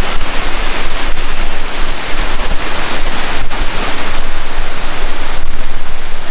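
Mineral Creek Falls, a waterfall, rushing loudly and steadily close by.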